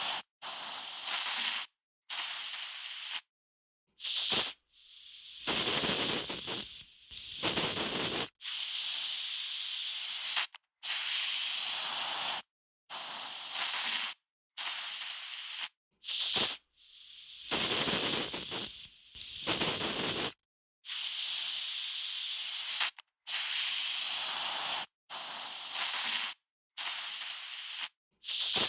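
Aerosol spray can being sprayed in a long series of separate bursts, each a hiss lasting from a fraction of a second to about two seconds, starting and stopping abruptly with silent gaps between them.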